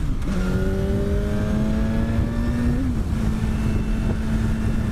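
BMW S1000RR's inline-four engine under way, its note rising slowly, dipping briefly about three seconds in, then holding steady. A heavy rush of wind noise sits underneath.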